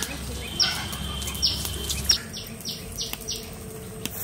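A bird calling: a string of short, high chirps that each fall in pitch, coming about three a second in the second half. A sharp click about two seconds in.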